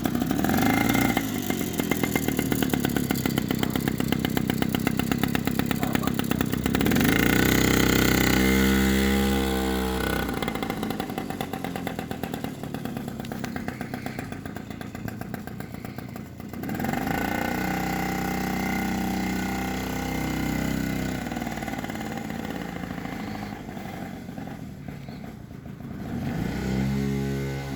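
Puch two-stroke moped engine fitted in a Suzuki LT50 mini quad, running with a rapid steady beat at idle. The throttle is blipped three times, about seven, seventeen and twenty-six seconds in, and the pitch rises and falls each time.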